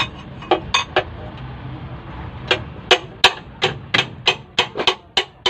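Hammer striking metal: a few scattered blows early, then a steady run of ringing strikes at about three a second, during cylinder sleeve work on a 4JB1 diesel engine.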